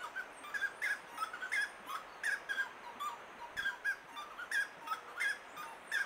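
Birds calling: a busy run of short chirping notes, several a second and overlapping, over faint forest hiss.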